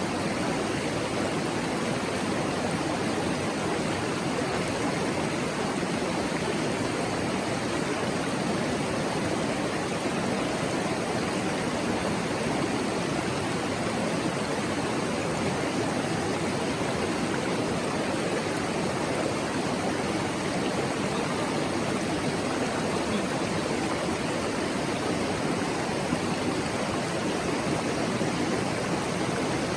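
Mountain stream babbling over rocks: a steady, even rush of running water.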